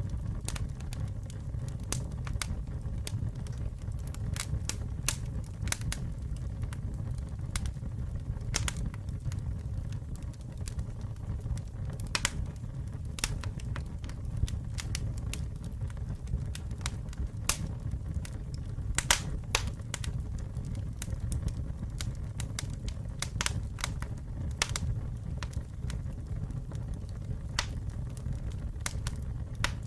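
Campfire burning: a steady low rumble of flames with irregular sharp crackles and pops from the burning wood, some louder than others.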